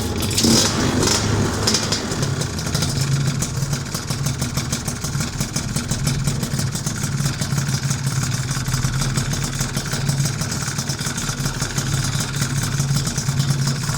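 Piaggio Zip SP scooter's two-stroke engine, built up to 172 cc, running steadily through a PM Tuning PM59 exhaust.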